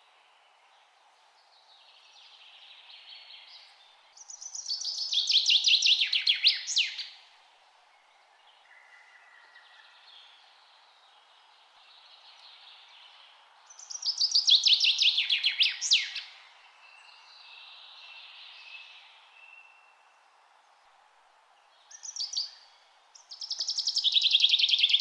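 A songbird sings the same loud phrase three times, about every nine seconds. Each phrase is a fast run of notes that ends in a few sharp downward notes. Fainter bird calls come between the phrases, over a steady background hiss.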